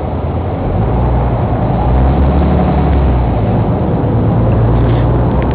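Heavy road vehicle's engine running close by: a steady low rumble that grows louder about a second in and holds.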